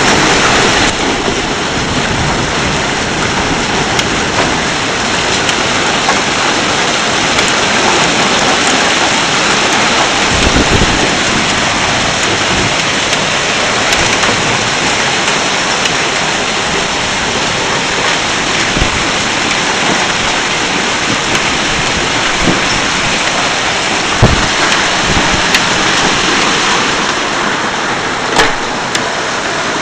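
Torrential rain pouring down steadily, with a few sudden sharp knocks standing out above it, the loudest near the end.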